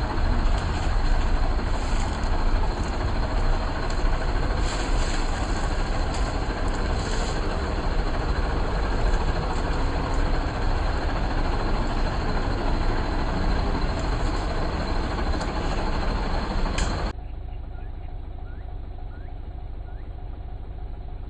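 A safari vehicle's engine running with a steady low rumble as it drives. About 17 seconds in, the sound cuts abruptly to a quieter, duller engine sound.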